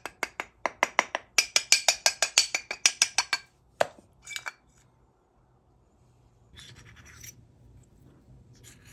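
Ratchet tool clicking in a fast, even run of sharp metallic ticks, about seven a second, while carburetor screws are worked loose. The ticks stop after about three seconds, a couple of single clicks follow, and then there is faint handling of small parts.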